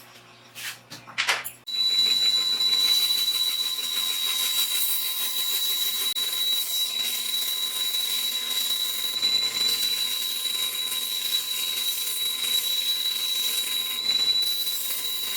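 Homemade 2x72 belt sander driven by an e-bike motor, starting after a few clicks about a second and a half in, then running steadily with a high-pitched whine over a hiss.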